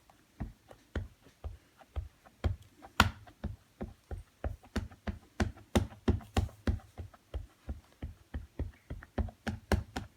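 A large rubber background stamp on a stamping block being inked with an ink pad, pad and stamp tapped together over and over on the table. This makes a steady run of short knocks, about three a second, a little quicker toward the end.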